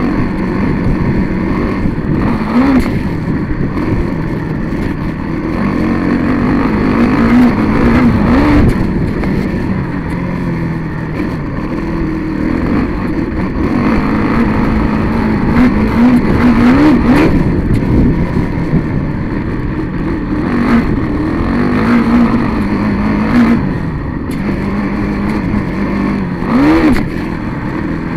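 Motorcycle engine heard from an on-board camera while racing on a dirt track, its pitch repeatedly climbing and dropping as the throttle is opened and closed, over a constant rush of wind on the microphone.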